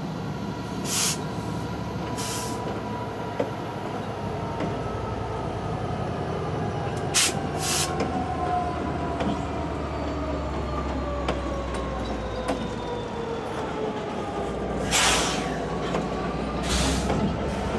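Norfolk Southern freight train passing close by: the locomotives' steady rumble, with a whine that falls in pitch as the GP59E goes by, then covered hoppers and tank cars rolling on. Several sharp clanks are heard along the way.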